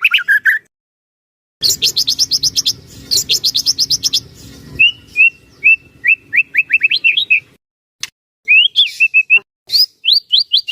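White-rumped shama singing a varied song: a fast trill of rising notes for about two and a half seconds, then short whistled notes and upward slurs, broken by two brief silences.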